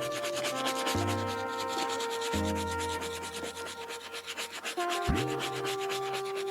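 Soft-bristle brush scrubbing a sneaker's leather tongue by hand in rapid, repeated back-and-forth strokes, over background music with deep bass notes.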